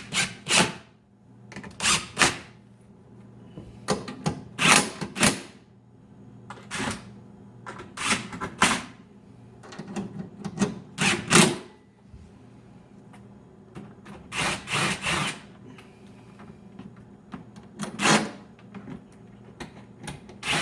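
Screws and a hand nut driver clattering against sheet metal as refrigerator panel screws are handled and fitted: about seven short metallic rattles and clicks, a couple of seconds apart.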